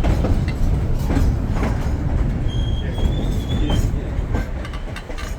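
Durango & Silverton narrow-gauge passenger train rolling along, a steady rumble with wheels clacking over rail joints. A thin, high wheel squeal rises briefly near the middle.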